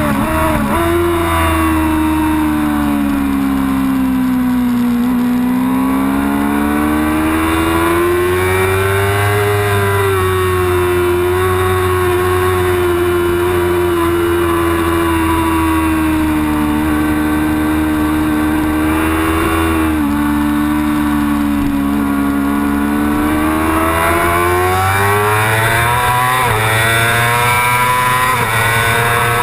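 Yamaha R6 sport bike's inline-four engine running hard on a race track, recorded onboard: its pitch sweeps slowly down and back up through the corners, with quick flickers of revs about half a second in and a sudden step down in pitch at about twenty seconds, a gear change.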